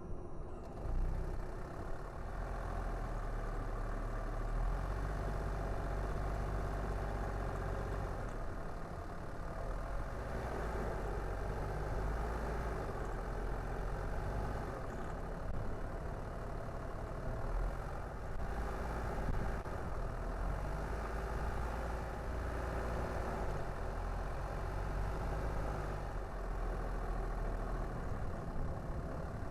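Car on the move: steady low engine rumble with road and tyre noise.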